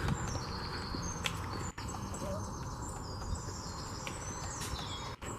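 Small birds singing and calling, with many high, thin whistled notes, over a steady low rumble outdoors.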